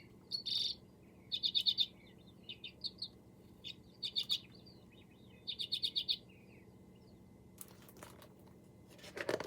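Recorded common redpoll calls played back: about five bursts of quick, high chattering chit notes, each a fast run of several notes, stopping about seven seconds in.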